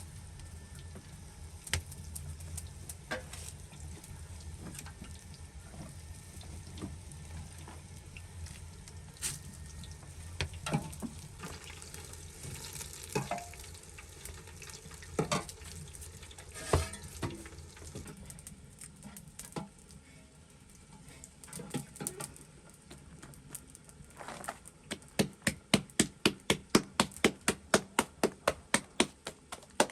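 Cooking sounds: stirring and scattered clinks of utensils over a low steady hum, then near the end a fast, even run of knife strokes on a board, about three to four a second, as food is chopped.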